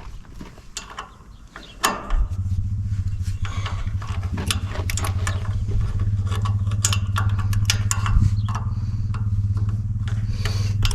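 A motor or engine starts about two seconds in and runs at a steady low hum, with scattered metallic clicks and clinks over it.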